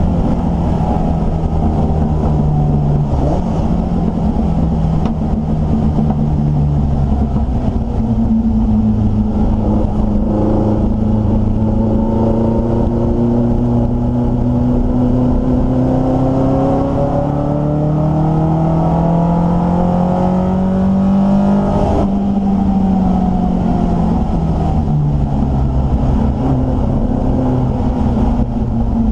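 Triumph Dolomite Sprint race car's slant-four engine heard from inside the cabin, running hard under load with its engine speed changing through the lap. Its pitch climbs steadily for about ten seconds, falls sharply about two-thirds of the way through, and then steps down again.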